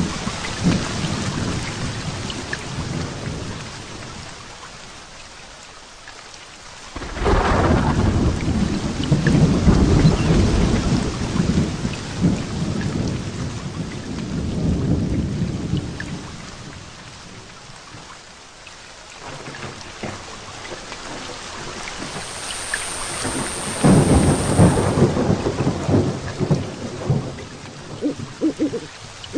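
Heavy rain falling steadily in a thunderstorm, with thunder twice: a sudden clap about seven seconds in that rolls on for several seconds, and a second roll building from about twenty seconds in and peaking a few seconds later.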